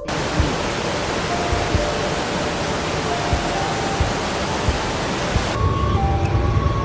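Flash-flood torrent of muddy water rushing, a steady loud rush. About five and a half seconds in it changes to a duller, rumbling rush with faint steady tones over it.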